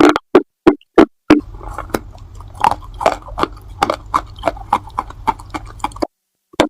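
Close-up crunching of baked clay pot pieces being bitten and chewed: loud, sharp crunches about three a second, then a run of quicker, softer crunches over a low hum that stops about six seconds in.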